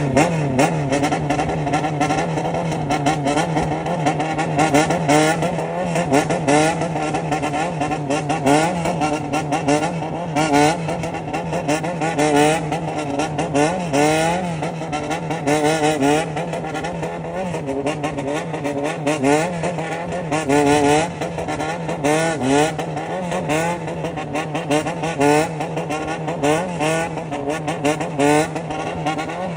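Honda CBX400F's air-cooled inline-four engine through a Kansai-style low-rev 'shura-kan' exhaust. It runs at low revs while the throttle is blipped over and over in a rhythmic low-rpm 'call', the pitch rising and falling in short waves.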